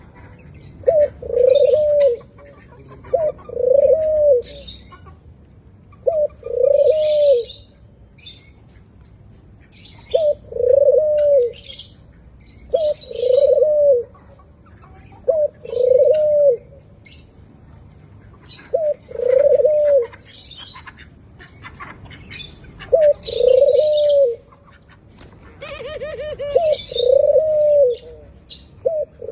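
White doves cooing again and again, a low coo every few seconds, each a short note followed by a longer rising-and-falling one. High chirps of other birds come in between.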